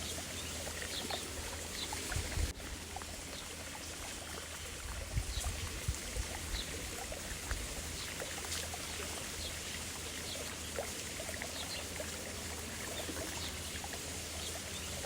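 Steady running water with faint short high chirps scattered through it.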